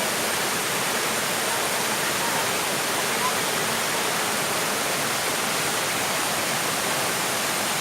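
Steady rushing noise of a waterfall: falling water pouring without a break.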